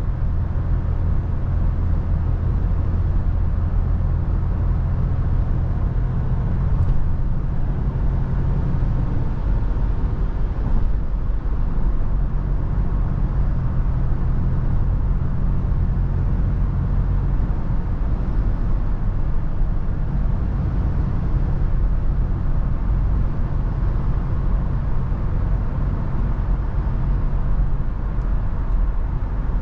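Toyota FJ Cruiser's 4.0-litre V6 engine and road noise heard while driving at a steady pace, a continuous low rumble that holds even throughout.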